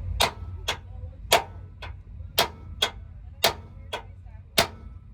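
Sharp metallic clicks from a Silverado truck's rear axle, coming in pairs about once a second as the wheels turn, over a faint low rumble. The sound points to a damaged axle that needs replacing.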